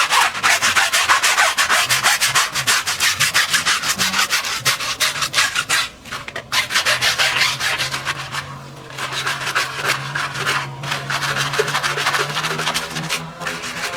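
Hand scrubbing in rapid back-and-forth strokes, several a second, with brief pauses about six seconds and eight and a half seconds in.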